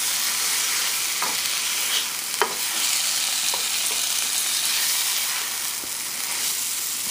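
Chicken pieces in oil and tomato-paste masala sizzling in a frying pan, a steady frying hiss. A few short clicks and scrapes come in the first few seconds as kitchen tongs stir and turn the pieces.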